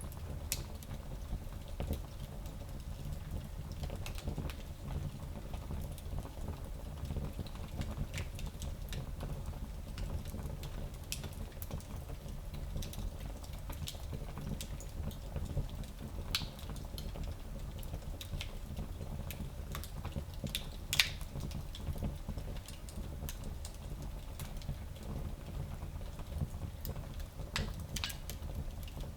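Wood fire crackling in a fireplace: irregular small snaps and pops over a low steady rumble, with one louder pop about two-thirds of the way through.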